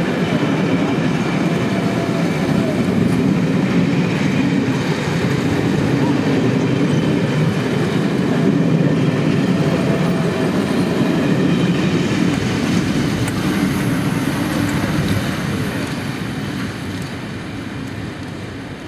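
The Northern Belle's Pullman coaches rolling past at close range in a steady, loud rush of wheel-and-rail noise. The sound fades from about fifteen seconds in as the train draws away.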